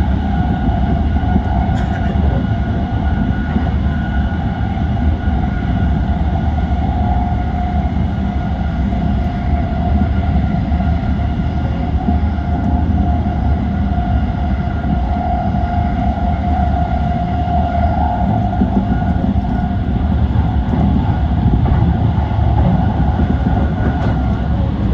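Yokosuka Line E235-1000 series electric train running, heard from inside the leading car: a steady rumble of the wheels on the rails with a steady whine above it.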